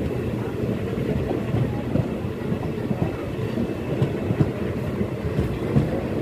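Janmabhoomi Express passenger coach running along the track: a steady low rumble of wheels on rails and the rolling coach.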